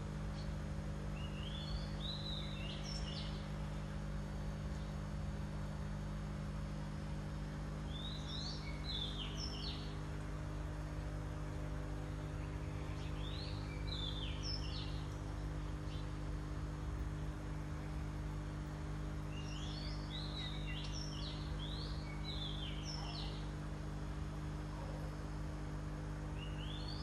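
A songbird sings short bursts of quick, sweeping high notes every five or six seconds over a steady low electric hum.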